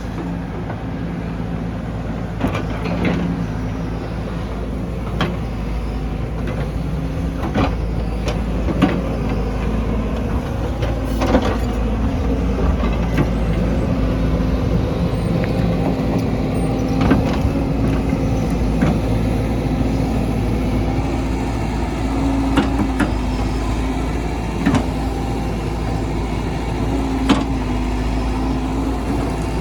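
Diesel engine of heavy earth-moving machinery running steadily under load, with scattered sharp clanks and knocks every second or two.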